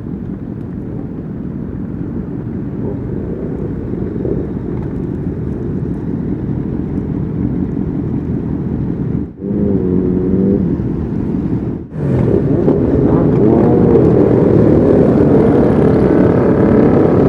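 Honda CBR600RR inline-four sportbike engine through a Leo Vince exhaust, running steadily on the move. It cuts out abruptly twice, then comes back louder with the pitch climbing near the end as the bike accelerates.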